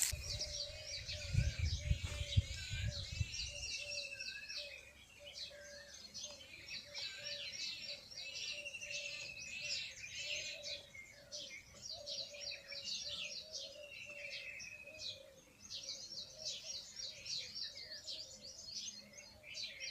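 Many small birds chirping and twittering together, with short trills and a few slow whistled glides, over a faint low call that repeats steadily. A low rumble sits under the first few seconds.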